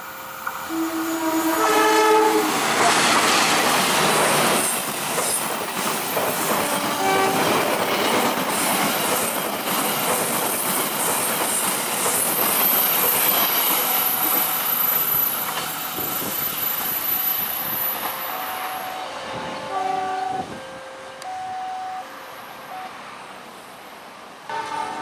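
A train sounds its horn in a few short, multi-tone blasts, then passes close by with a loud, steady clatter of wheels on the rails. A high wheel squeal joins partway through, and the passing noise fades, leaving a series of short repeated tones near the end.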